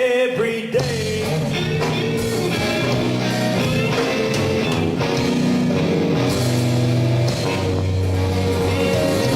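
Electric blues band playing a slow blues: a sung line ends about a second in, then electric guitar and bass carry on with the band.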